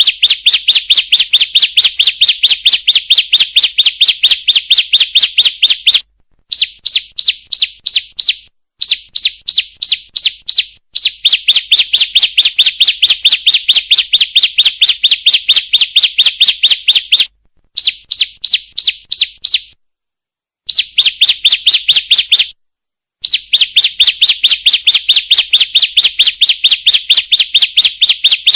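Ciblek (bar-winged prinia) calling: a rapid run of sharp, high chirps, about five a second, in bouts of a few seconds broken by brief gaps. It is a lure recording, billed as a female calling to males.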